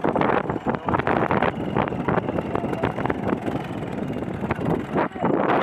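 Tractor engine running, with wind buffeting the microphone.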